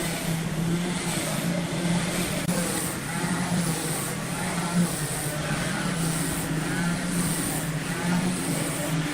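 An engine running steadily with an even, unchanging hum, with faint voices under it.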